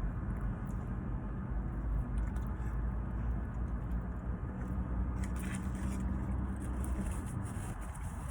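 Steady car interior noise: the engine running with a low hum, heard from inside the cabin.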